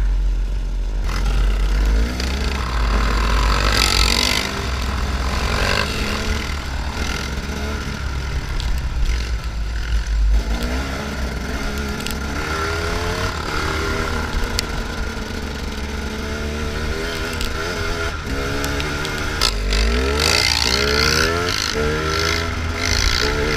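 Off-road trail motorcycle engines running and revving, their pitch rising and falling again and again, over a steady low rumble.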